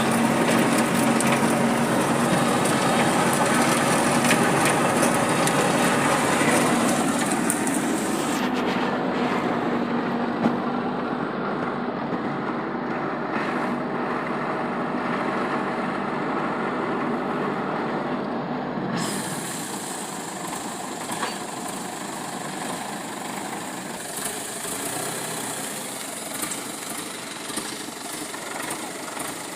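Truck engine running steadily, with a held hum in the first several seconds, growing gradually quieter.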